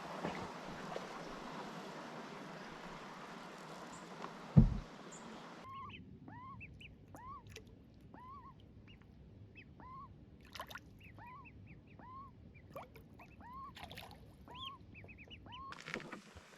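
A steady rushing noise with one sharp knock, then a bird giving short rising calls over and over, about one or two a second.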